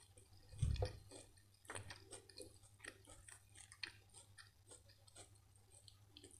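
Close-miked eating sounds of a person chewing spoonfuls of butter chicken and rice: many small mouth clicks and smacks. A dull low thump comes about a second in.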